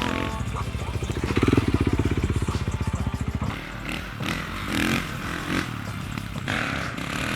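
Off-road bike engine revving close by, getting louder about one and a half seconds in, then dropping back to a quieter run about halfway through.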